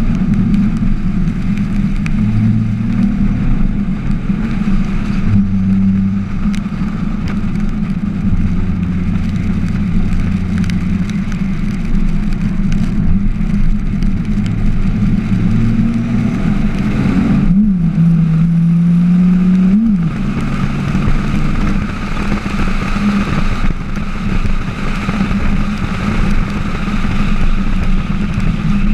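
Drift car's engine running hard under load, its pitch rising and falling with the throttle. About seventeen seconds in the revs dip briefly and then climb again.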